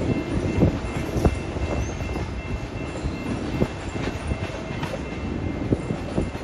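Freight train of tank cars rolling past: a steady low rumble of wheels on track, with irregular knocks and clanks as the cars go by.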